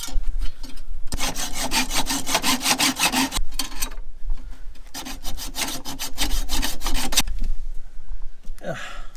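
Hacksaw cutting by hand through a rusted steel strut mounting bolt that has seized and rounded over. It goes in two runs of quick, rasping back-and-forth strokes, with a pause of about a second and a half between them.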